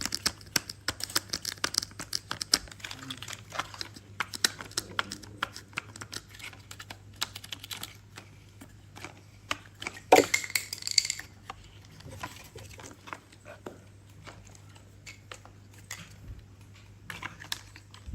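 Small plastic toy parts being handled: quick irregular clicks and rattles with some crinkling, busy in the first few seconds, a louder clatter about ten seconds in, then sparser clicks.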